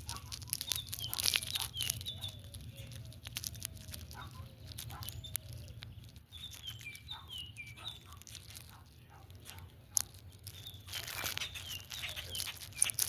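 A bird calling in repeated short chirps that fall in pitch, among scattered rustling and clicks, with a sharp click about ten seconds in.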